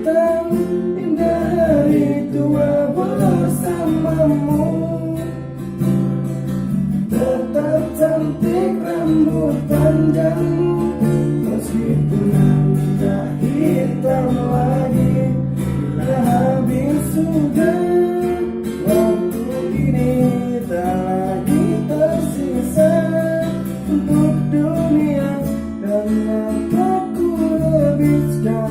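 Strummed acoustic guitar accompanying a male voice singing a slow pop ballad.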